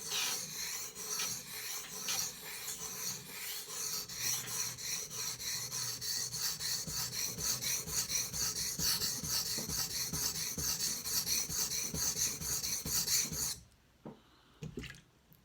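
Knife blade, a Gerber Ghost Strike, stroked back and forth on a soaked King water stone: a quick, even run of rasping sharpening strokes. The strokes stop abruptly near the end and are followed by a couple of light taps.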